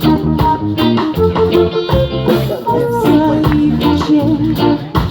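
Live band music: guitar and bass over a drum beat, playing between sung lines of a song.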